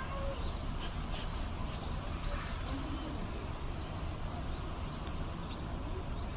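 Outdoor ambience: a steady low background rumble, with a quick run of small bird chirps about two and a half seconds in.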